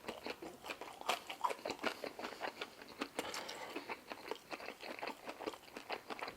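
A person chewing food close to the microphone: rapid, irregular crunches and wet mouth clicks, several a second.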